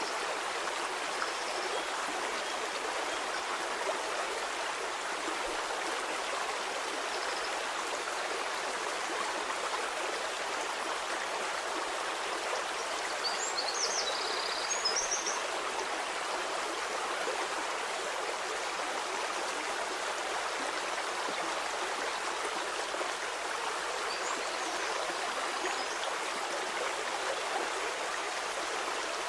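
Stream water flowing steadily over stones, an even rushing with no change. A few faint high chirps come through about halfway in and again near the end.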